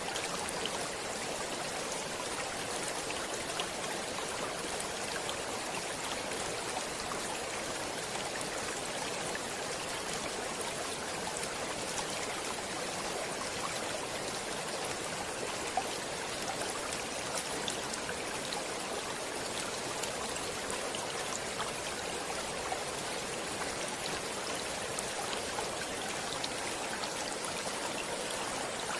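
A stream of water rushing and trickling over rocks, a steady splashing with small droplet splashes scattered through it.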